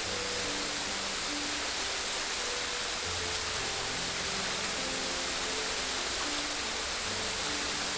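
Steady rushing water from a stream or small waterfall, an even hiss with no swells. Underneath, a slow melody of held low notes plays.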